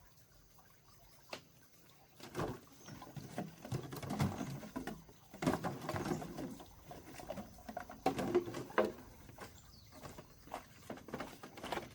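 Plastic bottle being handled and worked on, with irregular crinkling, scratching and small clicks.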